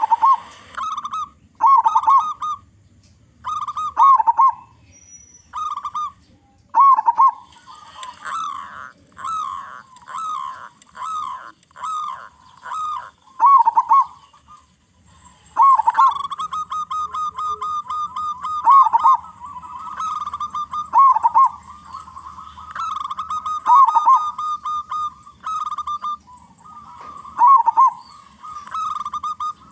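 Zebra dove (perkutut) calling: repeated phrases of quick, rolling coos, spaced by short pauses at first, then running on almost without a break for about ten seconds in the second half.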